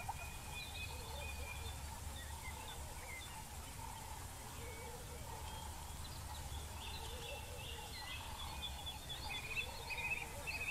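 Wild birds chirping and whistling in woodland, short high notes that grow busier near the end, over a steady low rumble.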